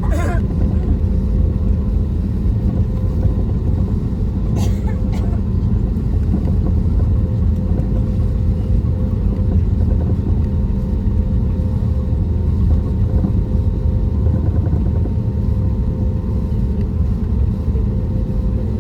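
Steady engine and airflow noise inside the cabin of an Airbus A320neo with CFM LEAP-1A26 engines: a loud, even rumble with a steady hum. A couple of brief clicks sound about five seconds in.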